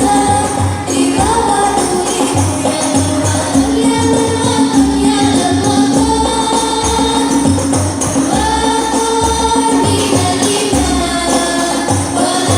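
Banjari music: Islamic devotional singing over hand-beaten frame drums (terbang) keeping a steady rhythm. The singers hold long, sliding notes.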